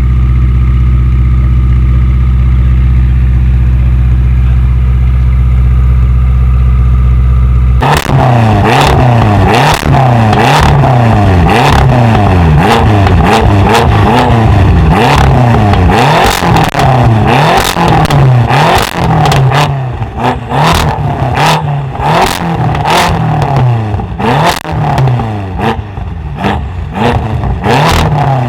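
Tuned car engine held at steady revs for about eight seconds, then blipped up and down over and over, with many sharp exhaust pops and crackles.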